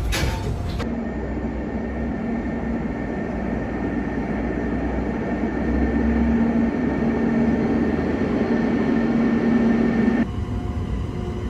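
Steady running noise heard inside a moving electric multiple-unit train carriage: a low rumble with a constant hum. The sound shifts abruptly about a second in and again near the end.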